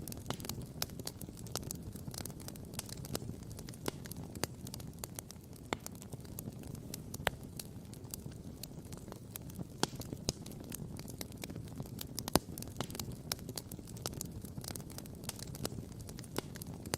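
Campfire burning, with wood crackling and popping irregularly, several sharp pops a second, over a steady low rush; one louder pop a little past the middle.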